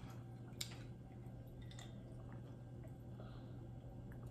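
Faint close-up mouth sounds of chewing food, with one sharp click a little over half a second in, over a steady low hum.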